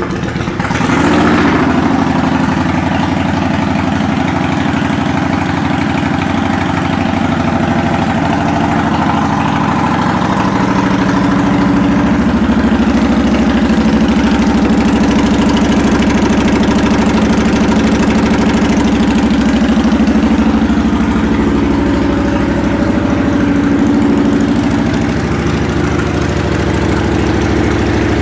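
2009 Kawasaki Vulcan 900 Custom's V-twin engine, fitted with aftermarket exhaust pipes, idling steadily just after a start, its pitch briefly rising and settling about a second in.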